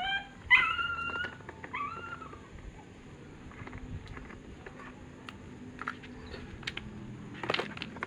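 A cat meowing, a few gliding meows in the first two seconds, followed by scattered light clicks and taps.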